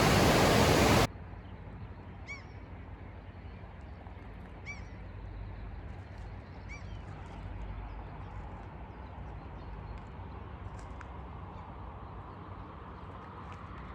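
A loud, steady rushing noise cuts off abruptly about a second in. It gives way to a quiet outdoor background with a low hum, in which a bird gives three short calls about two seconds apart.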